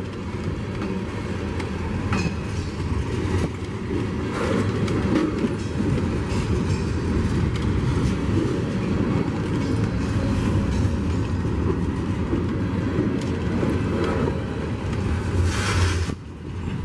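Freight train rolling past, its cars' wheels clattering over the rails in a steady rumble.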